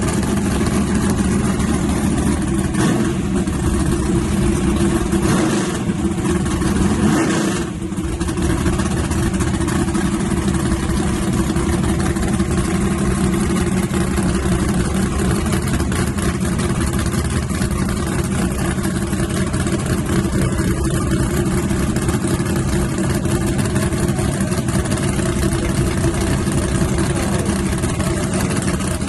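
Drag-race S10 truck engine idling steadily and loudly at an even pitch, with a brief dip about seven or eight seconds in.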